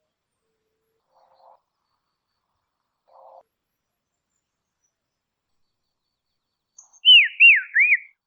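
Dusky robin calling: three quick clear whistled notes near the end, each sliding down and back up in pitch. Two faint brief rustles come earlier.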